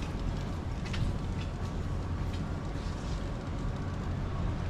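Street ambience: a steady low rumble of vehicles, with scattered sharp clicks of footsteps.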